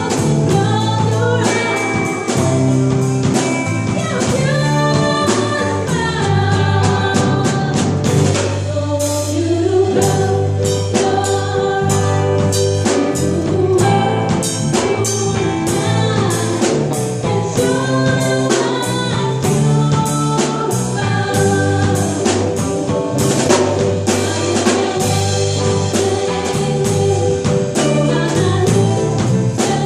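Live band music: a singer over a band with a drum kit, the drums keeping a steady beat.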